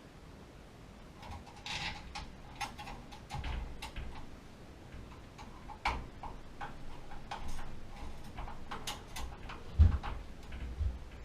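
Irregular clicks and light knocks, with some short metallic rings, from small parts and tools being handled, and one heavier thump just before the end.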